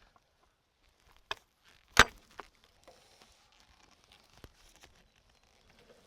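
A few sharp knocks of a heavy log and cant hook against the sawmill bed as the log is rolled over, the loudest about two seconds in, with quieter handling noise between.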